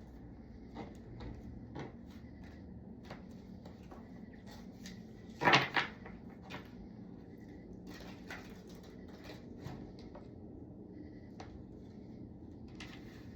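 Scattered light clicks and taps from small objects being handled, with a louder double knock about five and a half seconds in.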